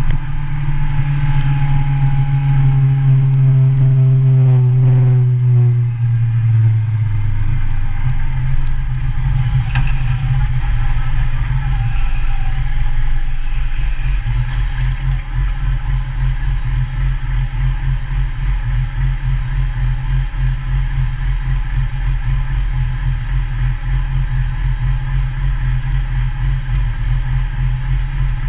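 Motorcycle engine slowing down, its pitch falling over the first six or seven seconds, then settling to a steady, low, pulsing idle.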